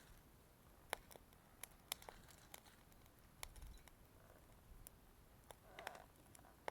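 Wood burning in a small wood-burning camp stove, with faint, irregular crackles and sharp pops.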